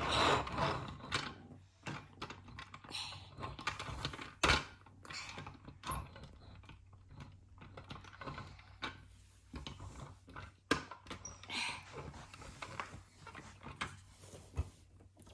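Plastic toys being handled and moved about: irregular small clicks, taps and rattles, with sharper knocks about four and a half seconds in and again near eleven seconds.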